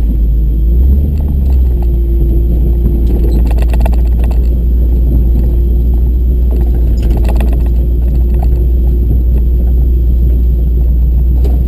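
Tow truck's engine running steadily with a deep rumble, with a few short rattles about three and seven seconds in.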